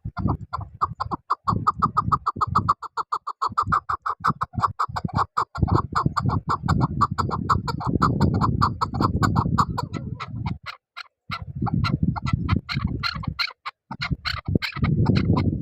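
Chukar partridge calling: a fast, even series of short clucking "chuck" notes, several a second, which grow louder and sharper in the second half. A low rumble comes and goes underneath.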